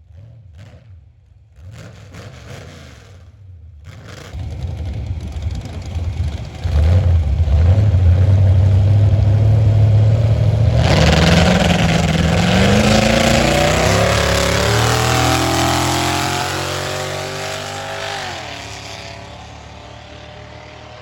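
Carbureted drag car launching and accelerating hard down the strip, its engine revving up through the gears and getting very loud, then fading away and dropping in pitch as it lifts off near the end. The engine is running rich from a carburetor that could not be tuned out.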